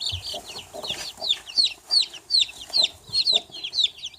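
Baby chicks peeping loudly and without pause as they are caught by hand, a quick run of short, high, falling peeps, about three a second, the loud cry of chicks in distress.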